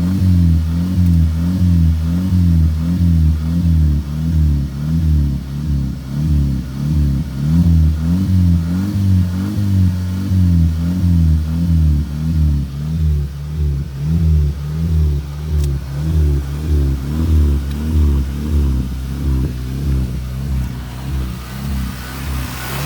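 Volkswagen car engine being revved again and again by pumping of the gas pedal, the revs rising and falling in a steady rhythm that quickens in the second half.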